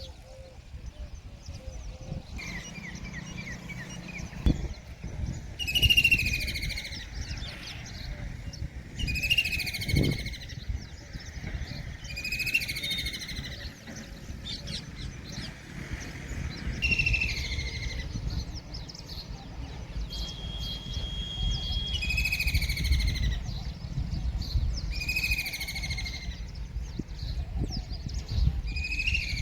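White-throated kingfisher calling: a loud descending trill, each about a second long, repeated about seven times at intervals of three to four seconds, over a steady low rumbling background.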